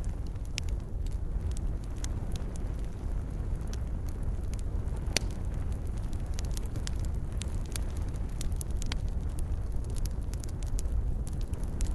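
Fireplace fire crackling: many scattered sharp pops over a steady low rumble, with one louder pop about five seconds in.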